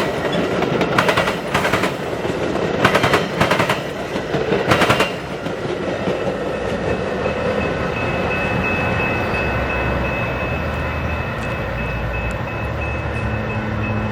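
Train passing close by: bursts of rapid clattering from the wheels in the first five seconds, then a steady rumble with a low drone and a thin high-pitched squeal from about seven seconds in.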